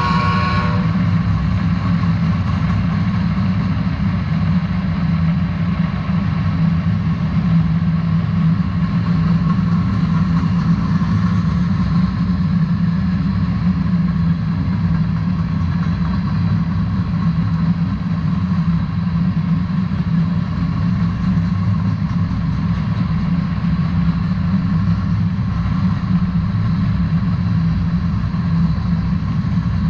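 A freight train of covered hopper cars rolls past with a steady low rumble. A train horn cuts off about a second in.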